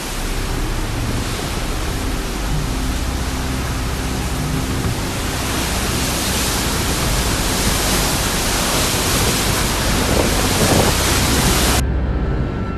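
Gale-force cyclone wind and heavy rain: a loud, dense rushing noise that cuts off suddenly about a second before the end.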